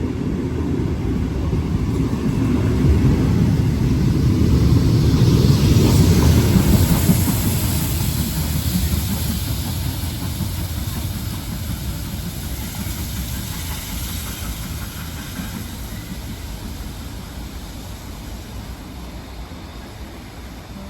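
A train running through the station: a deep rumble with a hiss above it that swells to its loudest about six seconds in and then slowly fades as the train moves away.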